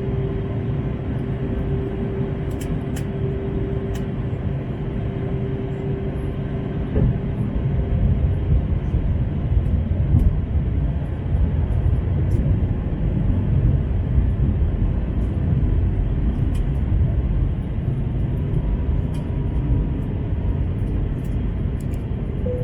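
Airbus A321 cabin noise: a steady low rumble of engines and airflow with a steady hum. About seven seconds in, the hum fades out and the rumble grows louder and rougher.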